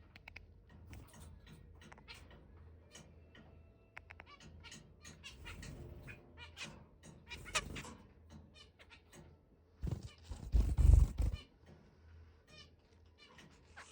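Zebra finches giving short, repeated chirping calls at close range. A loud, low thump and rumble comes about ten seconds in and lasts about a second.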